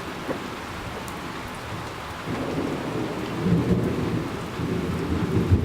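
Steady rain falling, with a low rolling rumble of thunder building from about two seconds in and growing louder toward the end.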